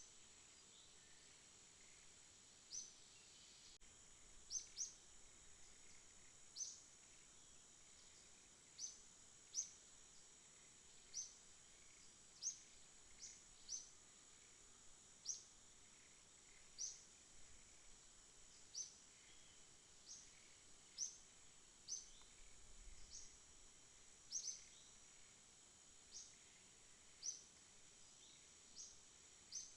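Night ambience: a steady high-pitched insect drone, with short sharp high chirps repeating irregularly about once a second.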